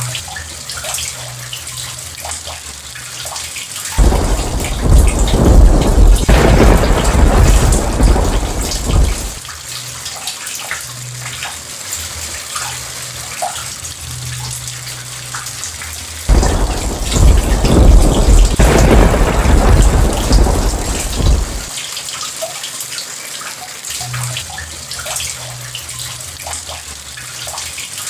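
Steady rain with two long rolls of thunder. Each starts suddenly and rumbles for about five seconds: one about four seconds in and another just past the middle.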